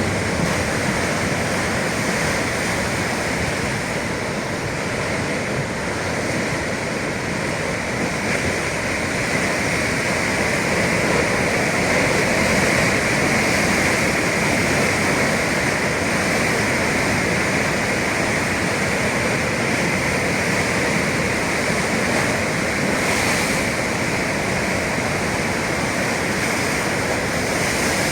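Atlantic sea surf: waves washing and breaking in a continuous rush, swelling slightly around the middle.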